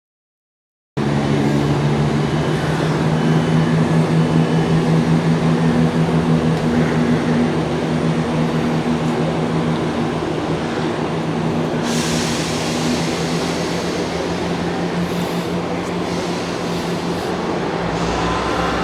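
Passenger train at a station platform, with a diesel engine running steadily at a low, even pitch. A hiss starts suddenly about twelve seconds in.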